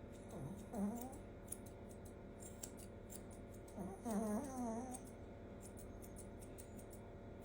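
Scissors snipping, faint scattered clicks, over a steady low hum. Two short wavering vocal sounds come about a second in and again around the middle.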